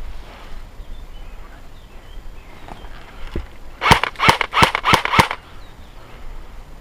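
Airsoft gun firing five quick shots in a little over a second, about four seconds in: sharp cracks, each with a short ringing tail.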